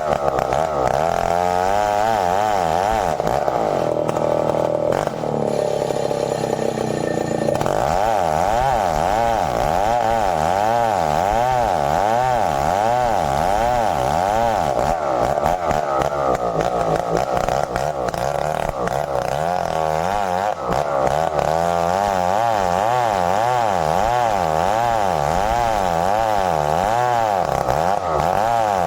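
Stihl 070 two-stroke chainsaw running hard as it cuts merbau hardwood, its engine pitch wavering up and down under load. Between about four and seven seconds in, the pitch holds steadier before the wavering returns.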